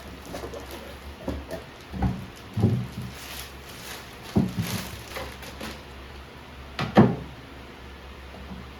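Household handling sounds: a few dull thuds and knocks of objects being moved and set down, with a light rustle in between; the loudest knock comes about seven seconds in.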